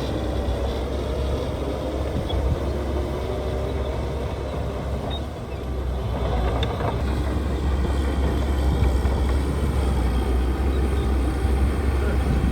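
Diesel engine of heavy earthmoving machinery running steadily under load, a little louder from about six seconds in.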